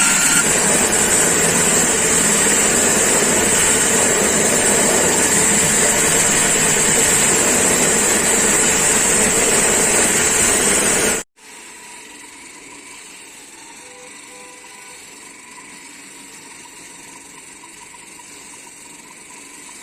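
Concrete floor saw cutting, a loud steady grinding hiss with a strong high whine. It stops abruptly about eleven seconds in, giving way to a much quieter steady machine hum.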